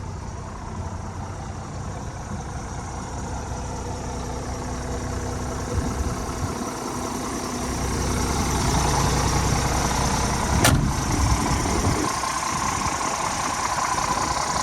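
Scania R450 Euro 6 truck's straight-six diesel engine idling steadily, growing louder for a few seconds from about eight seconds in, with a single sharp click near the eleven-second mark.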